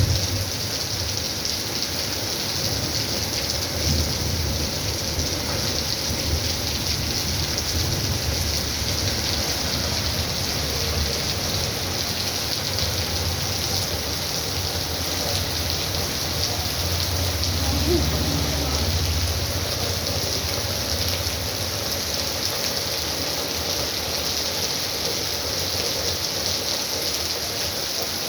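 Heavy rain falling steadily, an even hiss throughout. A low rumble comes and goes beneath it and is loudest a little past the middle.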